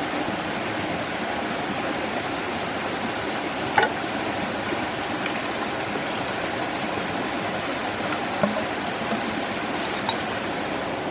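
A steady rushing noise, with a few brief faint clicks; the strongest click comes a little under four seconds in.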